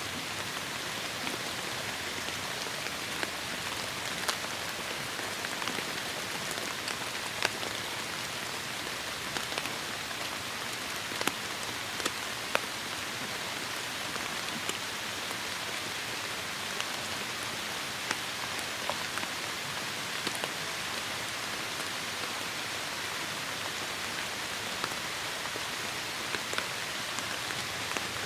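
Steady heavy rain, an even hiss of rainfall with individual drops ticking sharply here and there.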